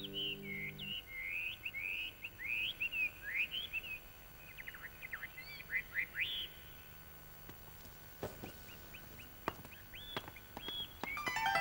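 Songbirds chirping in quick, sweeping calls for the first six seconds or so, over the dying ring of a plucked guqin note in the first second. A few faint clicks follow, and plucked zither music begins near the end.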